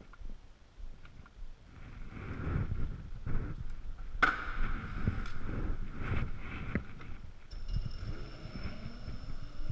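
Electric scooter on the move: uneven low rumble and wind buffeting, with a sharp knock about four seconds in. Near the end a rising motor whine and a steady high tone come in.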